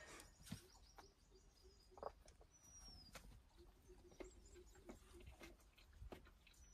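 Near silence with faint scattered clicks and a short, high chirp falling in pitch, heard twice, from a bird.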